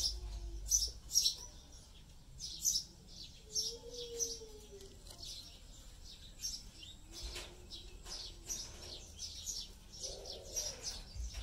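Small birds chirping, a busy run of short high-pitched chirps several times a second that keeps on throughout.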